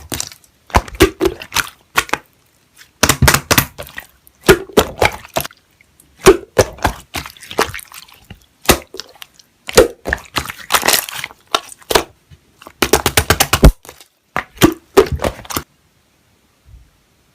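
Slime being squeezed and pressed by hand, in bursts of rapid crackling clicks separated by short pauses; the sound stops near the end.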